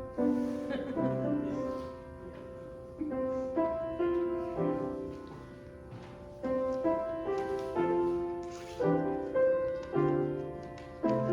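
Solo piano playing a slow, chordal hymn-style prelude, with notes struck and left to ring.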